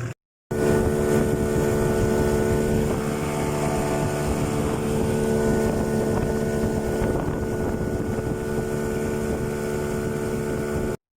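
Engine running steadily at a constant speed, with wind on the microphone.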